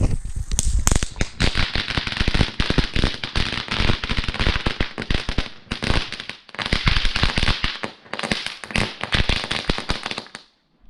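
Small Standard Fireworks fountain crackling hard, a dense stream of rapid pops that eases off twice for a moment and then cuts out suddenly near the end.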